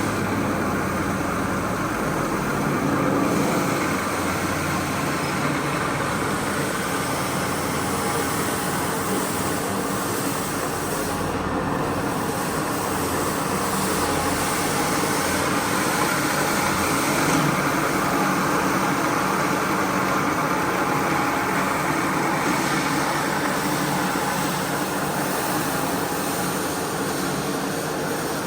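A motor-driven carpet-cleaning machine running steadily, a continuous even noise with a low hum and no breaks.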